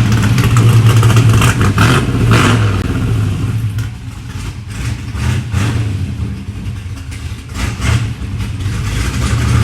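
A 327 small-block Chevy V8 in a 1963 Corvette race-car build, running rowdy. It is revved hard for the first couple of seconds, settles back for a few seconds, then picks up again near the end.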